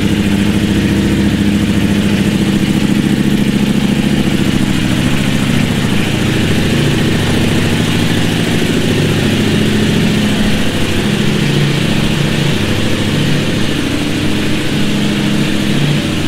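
Ducati superbike engine idling steadily, its pitch wavering a little, echoing inside an enclosed metal trailer.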